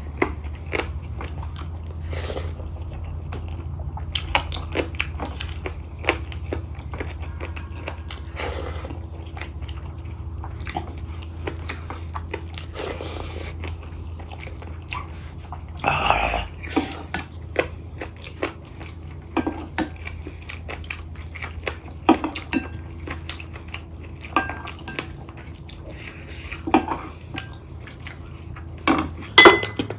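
Close-miked eating: chewing and biting with small mouth smacks, and now and then plates or cutlery clinking, over a steady low hum.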